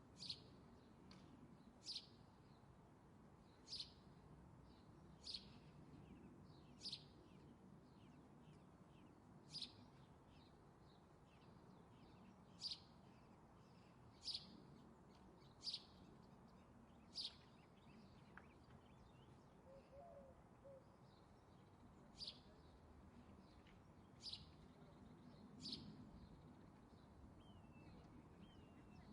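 A small songbird giving single sharp, high chirps, one every second and a half to two seconds, over a faint steady background hiss.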